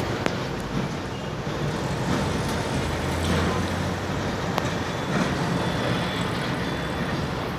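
Diesel locomotive running with a steady low engine rumble over the noise of the moving train, with a few sharp clicks.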